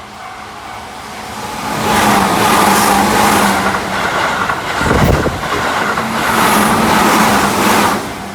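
Keihan Electric Railway train passing over a level crossing: the rush of wheels on rails swells to loud about two seconds in and holds for about six seconds, with a low thump about halfway through, then falls away near the end. The crossing's warning bell rings steadily underneath.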